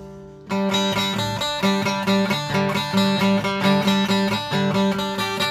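Guitar music: a held chord fades out, then about half a second in a steady, repeating plucked guitar pattern starts up, with no singing.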